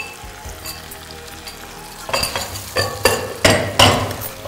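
Marinated chicken frying and sizzling in hot oil in a frying pan, stirred with a metal spoon. In the second half a quick series of scrapes and clinks comes from the spoon against the pan.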